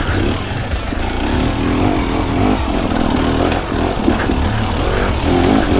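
2024 KTM 300 XC-W single-cylinder two-stroke dirt bike engine, its revs rising and falling repeatedly as the throttle is worked.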